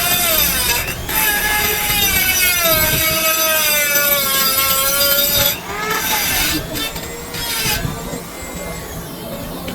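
A shrill, wavering squeal of several pitches gliding down and back up together, the kind made by a tool or part rubbing hard on metal. It drops away about five and a half seconds in, leaving a quieter rasping.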